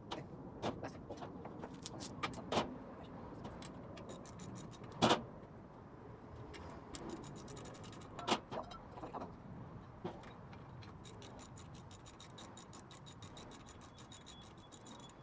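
Scattered metal knocks and clanks of hand tools working on a Thunderbolt siren's parts during disassembly, the loudest about five seconds in. From about eleven seconds on, a fast, faint, even ticking.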